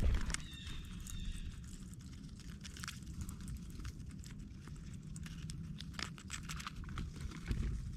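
Animals feeding at a ground platform feeder: scattered taps, clicks and rustling in the seed. A low thump comes right at the start and another near the end, and a short high call sounds about half a second in.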